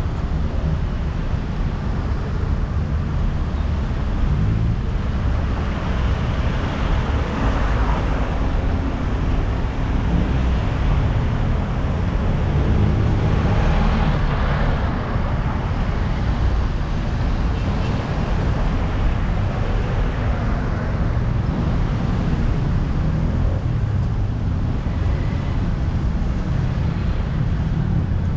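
Steady low rumble of a moving road vehicle, with road noise swelling twice: about a quarter of the way in and again about halfway through.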